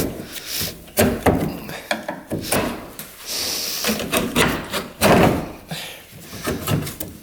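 Clunks, knocks and scraping of a plastic tailgate panel on a Polaris Ranger UTV being worked loose and pulled off by hand, with a longer scrape in the middle and the loudest knock about five seconds in.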